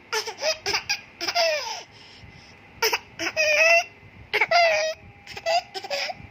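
A young child's high-pitched laughter and squeals in short bursts, with two longer held calls near the middle that sound like attempts to crow like a rooster.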